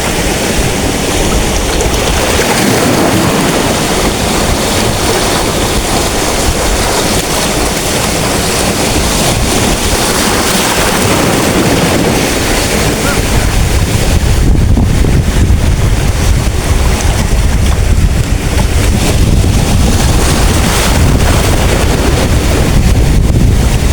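Big waves breaking and washing on a beach, with strong wind buffeting the microphone in a constant low rumble that grows heavier about halfway through.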